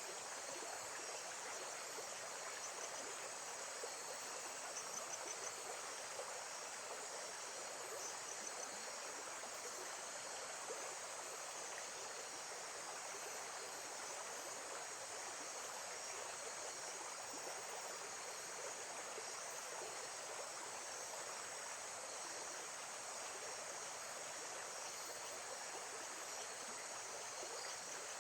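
Steady outdoor water ambience, an even rush of running or lapping water, with a constant high chirring of insects over it and a few short chirps now and then.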